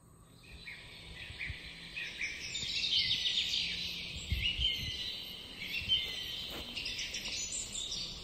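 Several birds chirping and singing over one another, a dense mix of short high calls that fades in from silence over the first couple of seconds.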